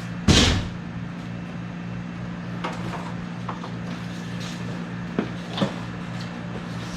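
A loud knock about a third of a second in, then a few lighter knocks and clicks from things being handled and moved, over a steady low electrical hum.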